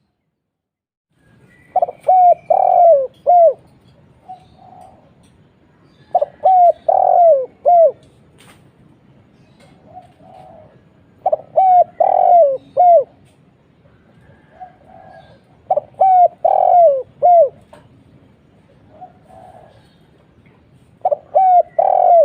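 Spotted dove (tekukur) singing: a loud cooing phrase of several falling notes, repeated about every four to five seconds, five times, with fainter short coos between the phrases.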